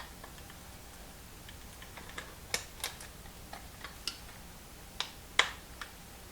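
Scattered light clicks and taps as small metal and plastic parts of an electric starter motor's drive gear assembly are handled, the sharpest one about five and a half seconds in.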